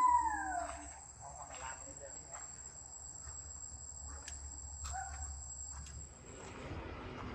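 Insects shrilling in one steady high-pitched drone that stops about six seconds in, with a few short chirps and ticks over it. A loud drawn-out call falls away within the first second.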